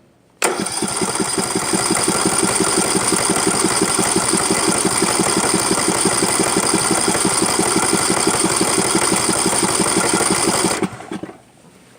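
Poulan lawn tractor's small gasoline engine starting on the key on its first cold start after sitting all winter, going at a fast, steady beat for about ten seconds before it stops suddenly.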